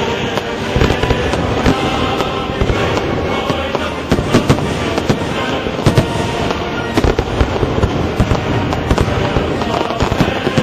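Fireworks display going off without pause: dense crackling and popping with louder bangs of bursting shells scattered through it.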